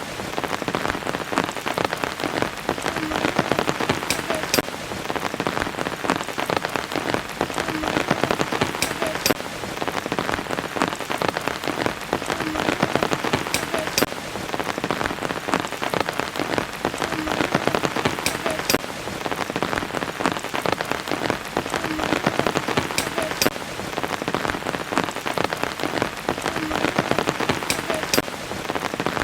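Steady rain falling on a surface, a dense patter of countless drops over an even hiss.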